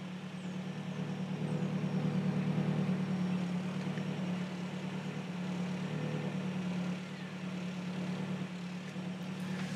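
Ford Focus Mk1 petrol engine idling steadily while it warms up after a frosty cold start, a low even hum that swells a little a couple of seconds in.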